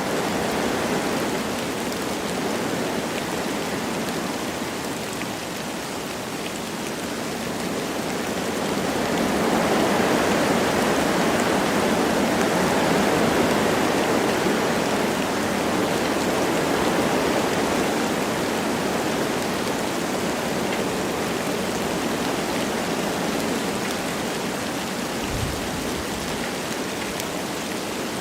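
Wind rushing through forest trees with light rain falling, a steady noise that swells into a gust about a third of the way in and then eases off.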